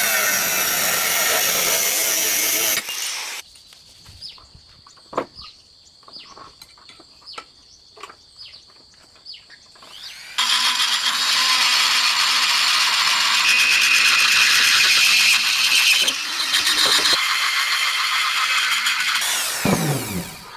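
Power grinder sharpening a forged steel knife blade: two long stretches of loud, even grinding, with a quieter gap of light clicks and taps between them. Near the end the grinding stops with a falling whine as the machine winds down.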